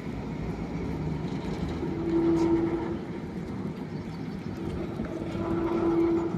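Heritage tram running, with a steady hum that comes in twice.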